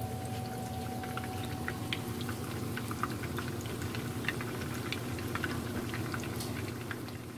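Tuna cakes frying in a shallow layer of oil in a pan on medium heat: a steady sizzle with scattered small pops and crackles, fading near the end.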